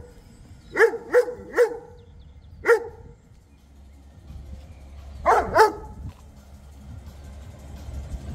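A dog barking: four separate barks in the first three seconds, then a quick run of about three barks around five seconds in. A low steady hum lies underneath in the second half.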